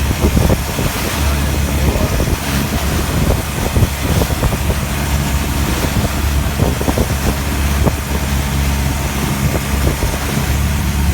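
A noisy boat engine running steadily at one pitch, with wind buffeting the microphone and short irregular knocks throughout.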